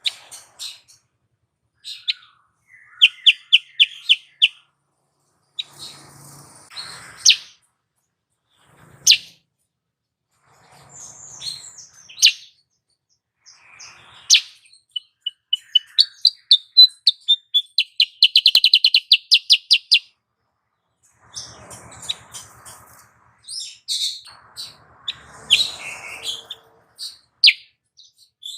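Female kutilang sutra calling: scattered sharp chirps and quick rapid trills of evenly repeated high notes, with rougher, buzzier calls in the later part. This is the female call used as a lure to rouse males into singing.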